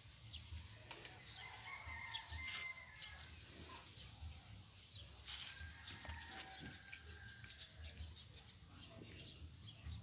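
Faint birdsong: scattered short chirps with a few longer, steady whistled calls.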